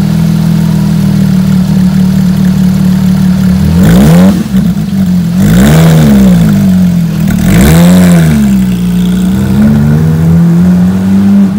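Porsche 911 (991) GT3's naturally aspirated 3.8-litre flat-six idling, blipped three times so the revs rise and fall sharply, then settling and moving off at low revs near the end.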